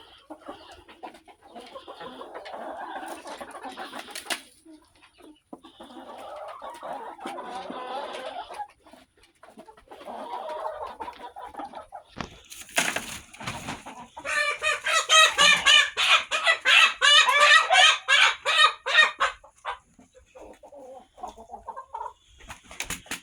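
Backyard chickens clucking, with a louder run of rapid, repeated calls for about five seconds past the middle.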